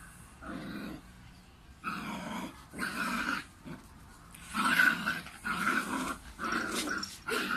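Puppy growling in a string of short growls, about seven, coming closer together after the first few seconds.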